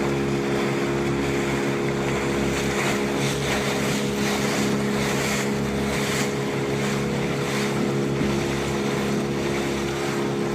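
Motorboat engine running at a steady speed, with wind noise on the microphone coming and going.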